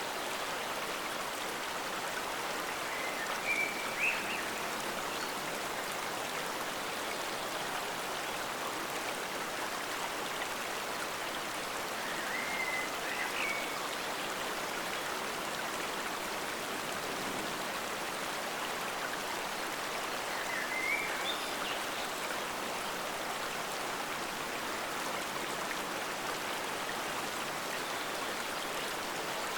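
Forest stream flowing steadily. A short high chirping call comes through it four times, about every eight seconds.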